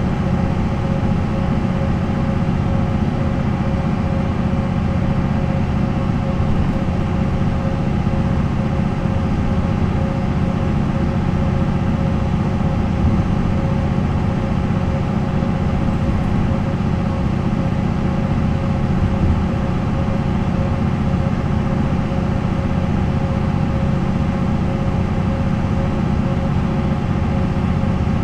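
MAN NL 263 city bus's D28 diesel engine running at a steady speed, an even low drone with a constant pitch and no revving.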